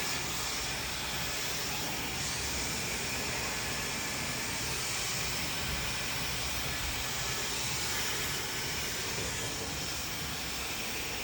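Handheld hair dryer running steadily, a constant rush of blown air.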